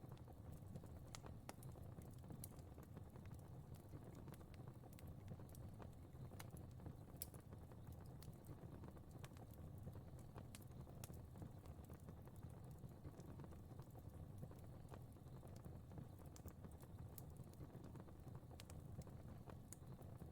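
A fire crackling faintly: irregular sharp pops and snaps over a low, steady rumble of burning.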